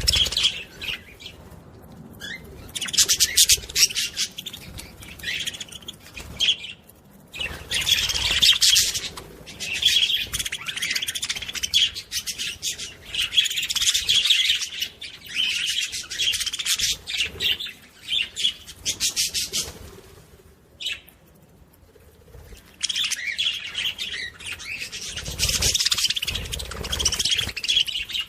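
Budgerigars chattering and warbling: rapid high chirps in bursts of several seconds, with brief pauses and a longer lull about two-thirds of the way through.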